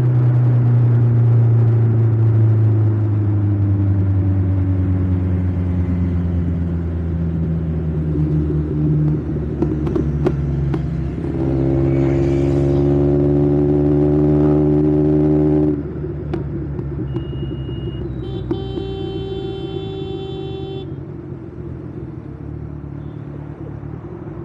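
Motorcycle engine running, its note sinking slowly as it slows, rising again about eleven seconds in, then dropping away abruptly to a quieter low rumble. A few steady high tones sound briefly after the drop.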